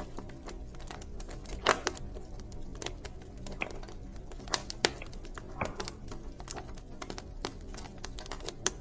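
Wood fire in a fireplace crackling: irregular sharp pops and snaps, the loudest about two and five seconds in, over a steady low hiss of the flames.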